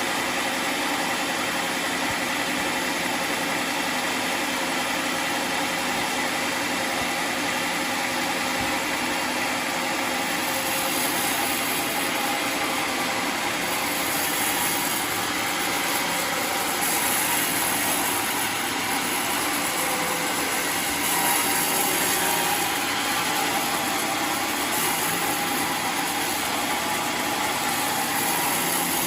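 Homemade sawmill running steadily, sawing a waru log into planks.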